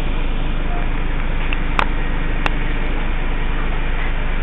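Steady low hum of a bus engine running, heard from inside the bus, with two sharp clicks about two and two and a half seconds in.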